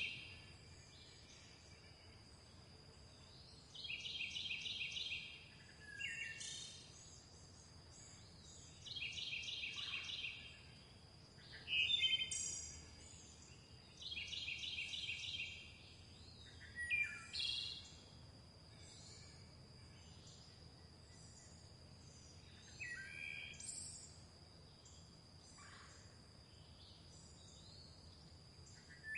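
Songbirds singing: one bird repeats a rapid trilled phrase of about a second and a half, three times roughly five seconds apart, while others give short chirps in between. A thin, steady high tone runs underneath.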